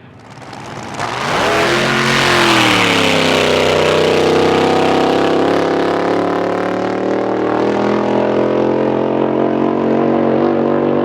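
Racing drag boat's engine running loud. It builds over the first two seconds, its pitch swoops up and dips back, then it holds a steady drone.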